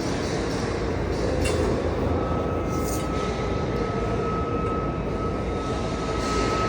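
Steady machine rumble, with a thin high tone joining in about two seconds in.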